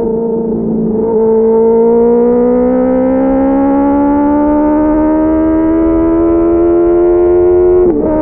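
Benelli TNT 600's inline-four engine running hard, its pitch holding for about two seconds and then climbing slowly as it accelerates, with a brief drop in pitch near the end.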